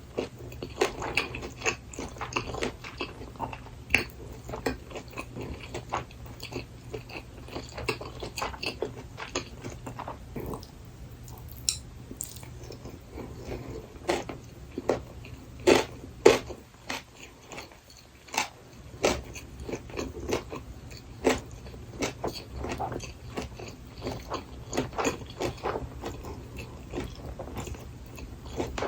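Close-miked chewing and biting of burdock gimbap: a steady run of wet mouth clicks and soft crunches, with a short lull about two-thirds of the way through.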